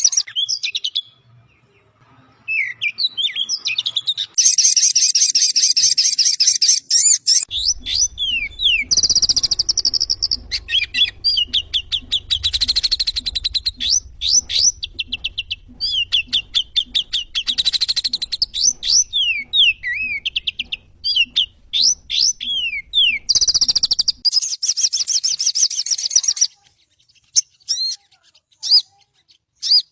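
Sogon bird singing: fast, high-pitched chirps, rapid trills and quick down-sweeping notes in a near-continuous run, thinning to a few isolated chirps near the end. A faint low hum lies under the middle part of the song.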